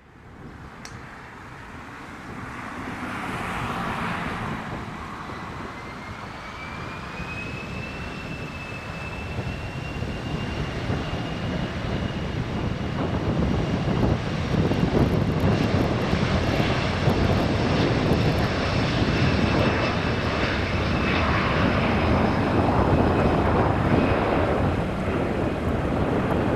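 Jet airliner's engines spooling up for takeoff: a fan whine climbs in pitch and then holds steady, while the roar grows steadily louder.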